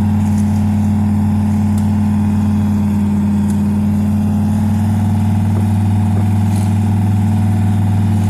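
Engine of a 1957 Chevy running at a steady speed: a loud, even, low drone.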